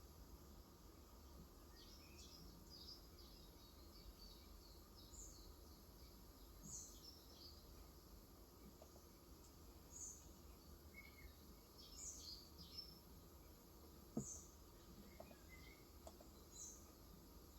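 Faint birdsong: small birds twittering, with one short high call repeated every second or two. A single soft knock about two-thirds of the way in.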